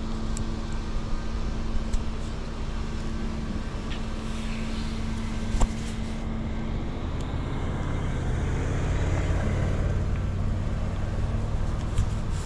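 Road noise while riding an electric bicycle: a steady hum and wind on the microphone. A motor vehicle's low rumble builds in the second half, swells and then eases. There is one sharp click a little past halfway.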